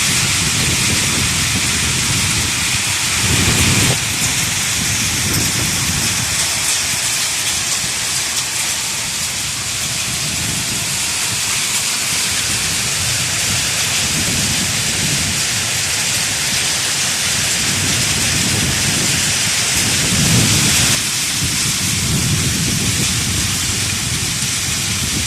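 Heavy storm of rain and hail pelting down in a dense, steady hiss, with low rumbling swells coming and going through it.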